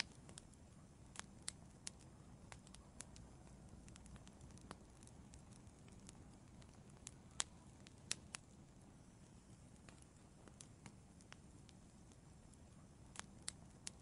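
Quiet wood fire crackling in an outdoor fireplace: scattered sharp pops over a faint low rumble of flames. The loudest pop is about halfway through, and small clusters of pops come near the start and near the end.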